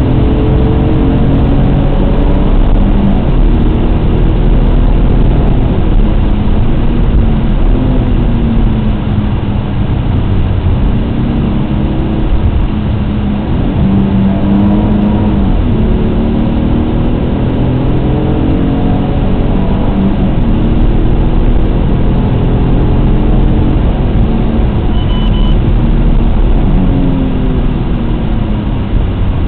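Alfa Romeo GTA's 3.2-litre V6 driven hard on a race track, its revs climbing again and again through the gears and dropping back when lifting and braking for corners, heard from inside the cabin.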